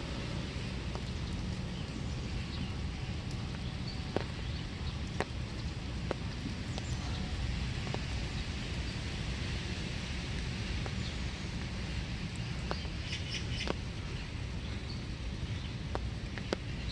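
Steady winter rain falling in a small wood, with scattered drops ticking sharply. A few birds chirp briefly about three quarters of the way through.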